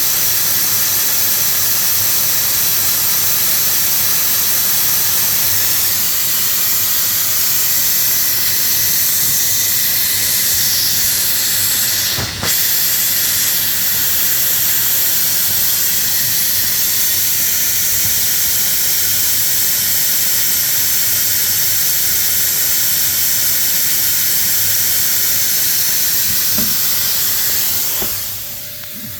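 Loud, steady hiss of rushing air during an exhaust leak test on a 2002 Ford F-150. It breaks off for a moment about twelve seconds in and fades down near the end.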